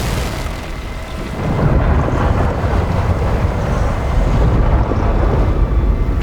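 Loud, deep rumbling with rough noise, swelling again about a second and a half in: a mine cave-in.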